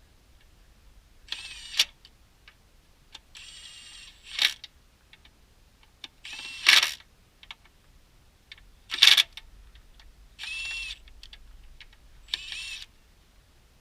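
Cordless power tool, set to low speed, running bolts in about six short whirring bursts a second or two apart, several ending in a sharp click.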